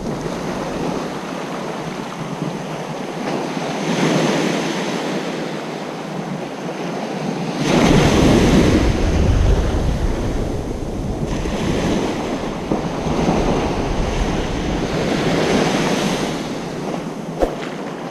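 Ocean surf breaking on a beach, waves washing in and swelling every few seconds, the biggest about eight seconds in, with wind rumbling on the microphone.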